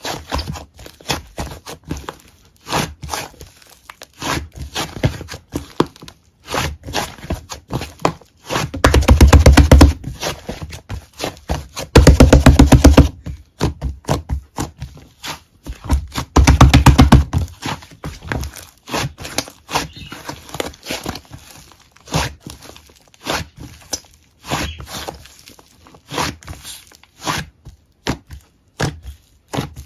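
Close-up handling sounds: a run of sharp taps, clicks and crinkles, broken three times by loud rattling buzzes about a second long.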